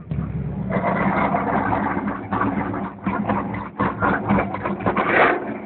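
Chevrolet Lumina SS ute's V8, tuned to about 400 kW, idling, with a run of short, loud throttle blips in the second half.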